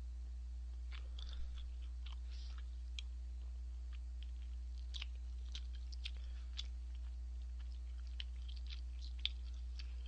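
A person chewing tteokbokki close to the microphone: irregular wet mouth clicks and smacks of chewy rice cakes, over a steady low hum.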